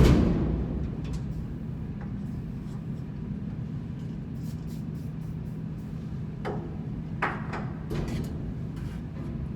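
A single loud metallic bang at the start that rings out briefly, then a steady low machinery hum with a few faint knocks about six and seven seconds in.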